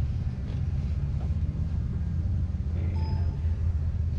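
A steady low mechanical hum, with a faint short ringing tone about three seconds in.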